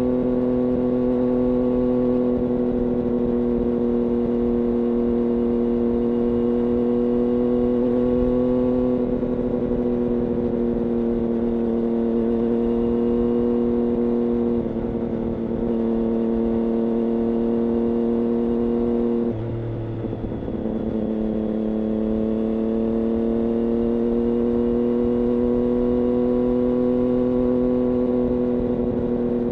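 Triumph Daytona 675's inline-three engine through an IXIL aftermarket exhaust, running at steady high revs with a near-constant pitch. About two-thirds of the way through the note briefly drops and breaks, then slowly climbs back to the same pitch.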